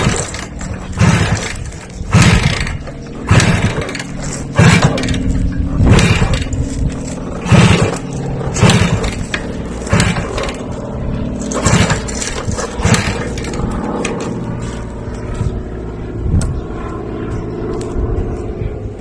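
A motor running steadily, with a loud, harsh noise burst repeating about once a second that thins out and fades over the last few seconds.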